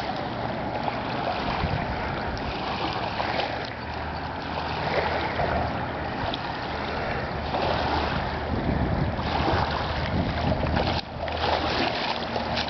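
River water moving and lapping, with wind buffeting the microphone.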